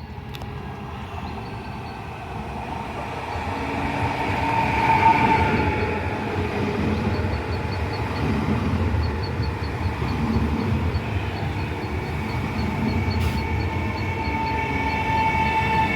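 Train running past on the tracks: a continuous rumble with steady high tones ringing over it, swelling to its loudest about five seconds in, then holding.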